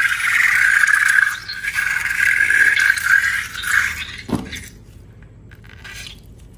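Rubber balloon squealing as air escapes through its stretched neck, in a steady high squeal with a short break; near the end it drops quickly in pitch and stops as the balloon empties.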